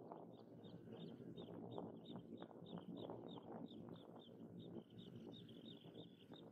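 Faint, steady series of short high chirps, about three a second, from a bird calling over and over, above a low background rumble.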